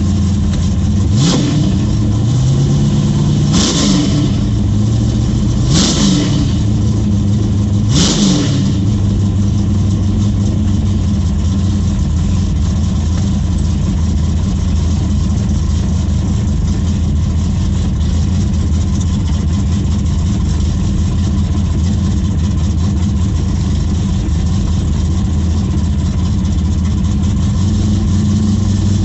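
Chevrolet S10 drag truck's engine pulling hard through the gears, the revs climbing and dropping at four quick gear changes in the first eight seconds, then holding a steady drone at cruising speed.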